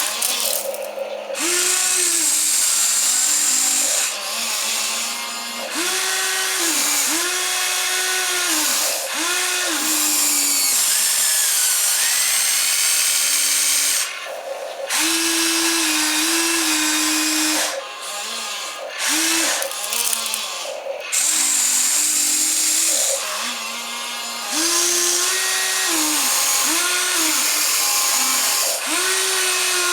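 Small electric motors of a radio-controlled model excavator whining as it works, the pitch ramping up, holding and dropping in repeated one-to-two-second runs with short pauses between, as each control is worked.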